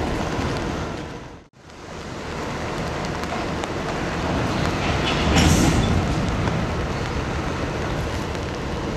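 Freight cars rolling slowly along the rails, a steady rumble of wheels on track. The sound cuts out for a moment about a second and a half in, and swells louder for about a second near the middle.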